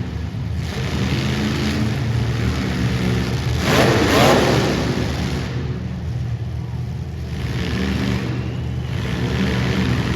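Demolition derby car engines running steadily, with a loud rushing surge about four seconds in.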